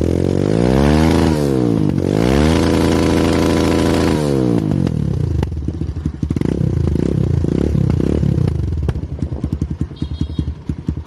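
Kawasaki KLX150's single-cylinder four-stroke engine through an FRS aftermarket racing exhaust, revved twice: a quick blip, then held high for about two seconds. It drops back to a fast, even idle.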